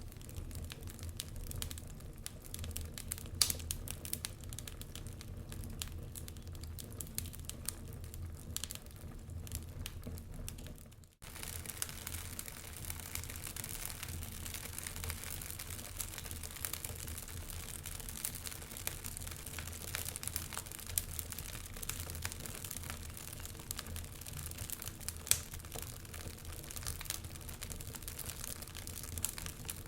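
Fire crackling steadily, with frequent small snaps and a few louder pops. The sound drops out for an instant about eleven seconds in.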